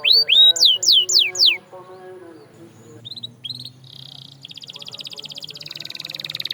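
Domestic canary singing. It opens with loud, quickly sweeping whistled notes, breaks off for a moment into a few short chirps, then launches into a rapid rolling trill that grows louder through the second half.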